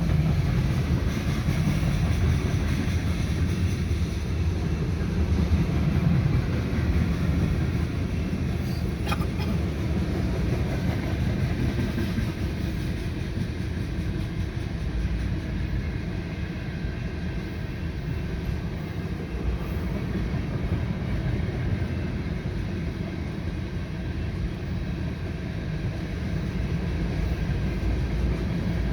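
Freight train rolling past, a steady rumble of its cars' wheels on the rails.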